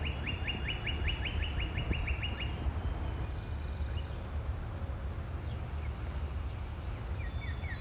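A songbird trilling: a rapid run of short, high, down-slurred notes, about six a second, which stops about two and a half seconds in. A second trill starts near the end, over a steady low rumble.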